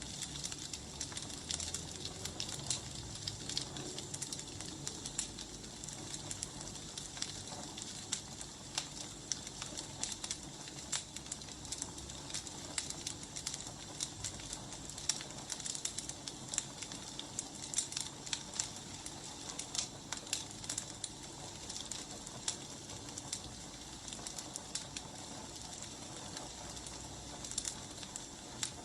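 Burning firewood crackling: irregular pops and snaps over a steady hiss.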